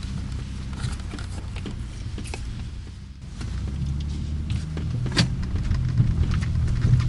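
Car engine running with a low rumble, heard from inside the cabin; it dips about three seconds in, then grows louder as the car drives off. Scattered light clicks sound over it.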